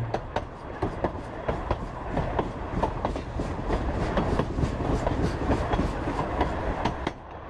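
Narrow-gauge Cumbres & Toltec passenger train rolling along the track, its wheels clicking irregularly over the rail joints over a steady rumble and rattle of the car.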